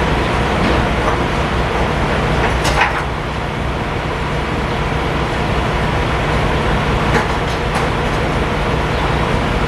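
A semi truck's diesel engine running steadily, with a few short clicks or knocks, one a little under three seconds in and two more near the end.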